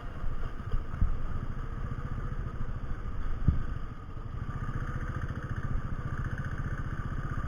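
Royal Enfield 500's single-cylinder engine running steadily with a rapid low pulse while the bike is ridden, with a sharp knock about three and a half seconds in.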